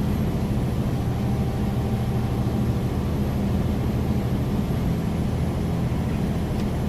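Semi truck's diesel engine running with a steady low hum, heard from inside the cab as it climbs a snowy grade slowly.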